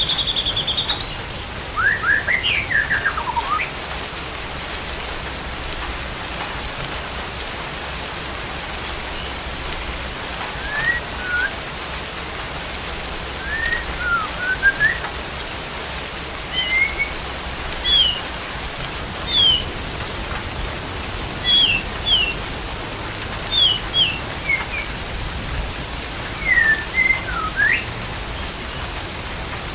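Songbird giving short whistled notes and quick up-and-down sweeps: a busy phrase in the first few seconds, a pause, then scattered single notes from about ten seconds in. Underneath runs a steady hiss of rain.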